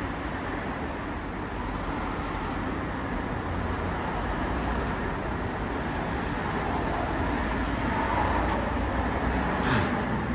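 Steady road traffic noise, an even rushing hum with no distinct events.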